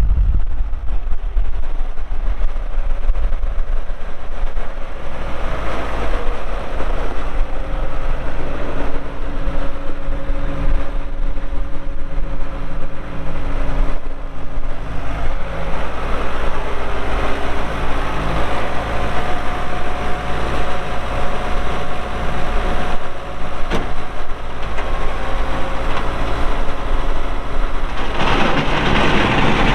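New Holland 6610S tractor's diesel engine running, its pitch shifting at times and louder near the end.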